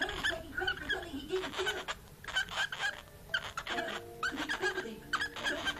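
Pet cockatiels chirping and chattering in quick, short calls, with a few longer held notes about two-thirds of the way through.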